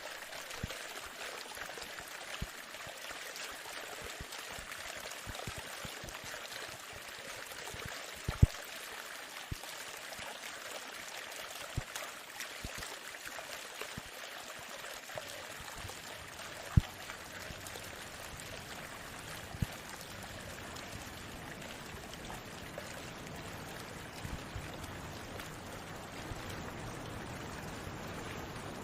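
Sea water washing: a steady hiss of surf with scattered sharp clicks, the loudest about eight seconds in.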